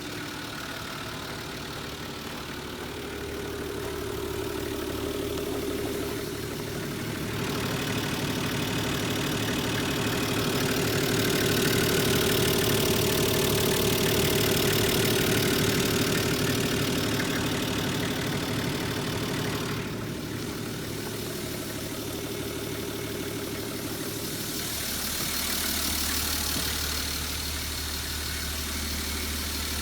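Nissan Civilian bus's TD42 4.2-litre inline-six diesel engine running steadily, getting louder for several seconds in the middle and then settling back.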